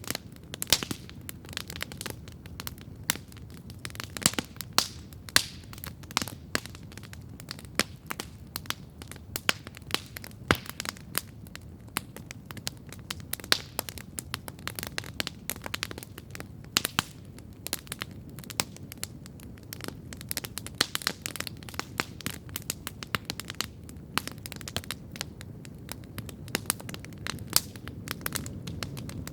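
Wood campfire crackling, with frequent sharp pops and snaps at irregular intervals over a steady low rumble of the flames.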